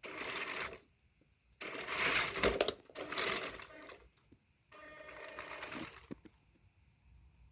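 Toy remote-control monster truck's electric motors and gears whirring in four short bursts as it drives.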